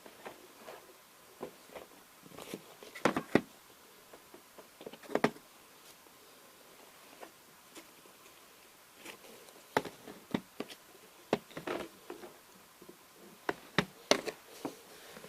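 Handling noise: irregular clicks and knocks of small hard objects being picked up, moved and set down, with a loud pair about three seconds in and another cluster near the end.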